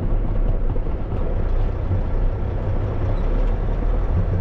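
Dump truck's diesel engine running with a steady low rumble, heard from inside the cab.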